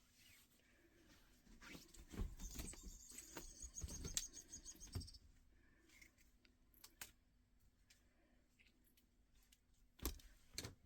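A chirping cat toy gives a quick run of high electronic chirps amid soft knocks and thumps, then two sharp clicks come near the end.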